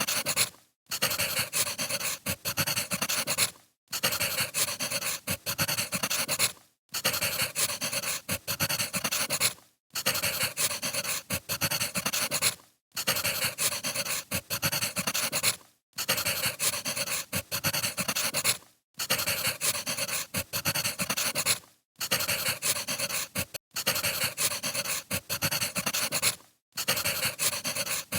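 Wood fire crackling: a dense run of pops and crackles that cuts to silence for a moment about every three seconds, like a short recording looped.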